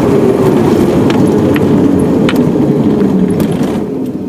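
A vehicle driving over a dirt road: steady engine and tyre noise with scattered small clicks and knocks, getting quieter near the end.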